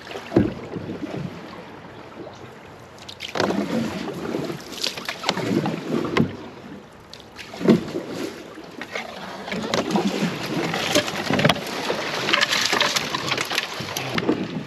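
A canoe being paddled along a shallow canal: irregular paddle splashes and swishes with knocks against the hull, busier in the second half.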